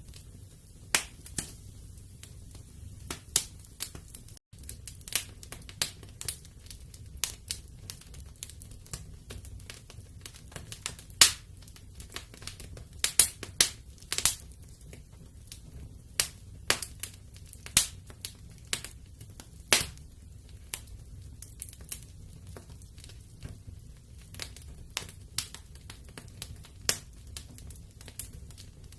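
Fireplace fire crackling: irregular sharp pops and snaps, a few a second at most, over a low steady rumble.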